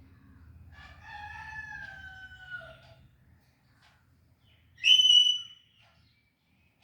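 Pet parrot calling: a drawn-out call that slides down in pitch for about two seconds, then a short, loud, shrill call a couple of seconds later.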